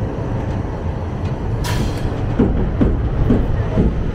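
Passenger train coach rolling slowly along a platform as it pulls into the station, a steady low rumble of wheels on rail with a few faint clicks and a brief hiss about 1.7 seconds in.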